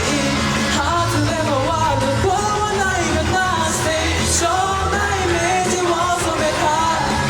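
A singer performing an upbeat J-rock anime theme song over loud rock accompaniment, with a steady bass and cymbals beneath the melody.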